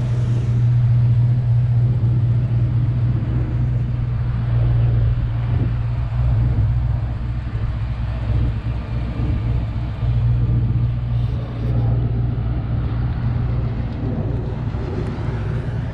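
An engine idling with a steady low rumble, heard over faint outdoor traffic.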